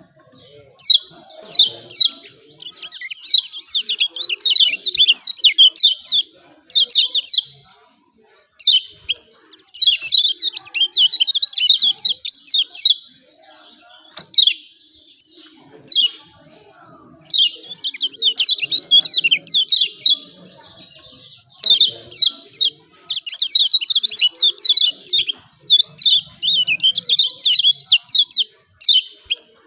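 Kecial kuning (Lombok white-eye) giving fast, excited 'ciak ciak' chatter: runs of sharp, high notes in bursts of one to three seconds, broken by short pauses.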